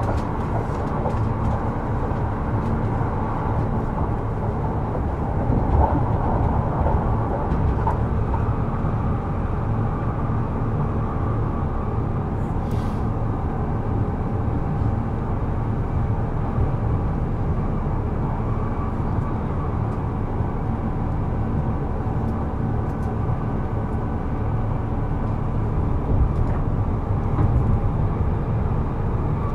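Kintetsu 12200-series limited express motor car (Mo 12051) running at steady speed: the traction motors and wheels on the rails, heard from on board.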